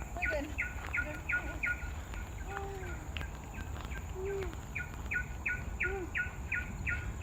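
A bird calling a long run of short, evenly repeated notes, about three a second, which breaks off for a couple of seconds midway and then resumes.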